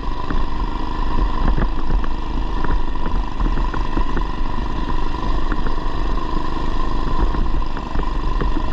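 Predator 212cc single-cylinder four-stroke engine of a Coleman BT200x mini bike running steadily under way through a header muffler. Scattered short clicks and knocks run through it.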